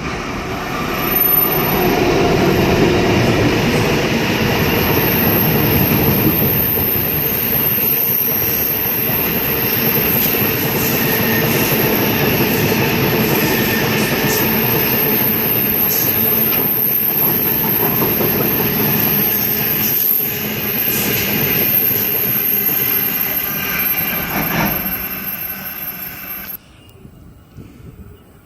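Cement freight train led by 81 class diesel locomotive 8170 rolling through at speed: a loud steady rumble of wagons with irregular clicks of wheels over rail joints and a thin steady high whine. The sound cuts off suddenly near the end.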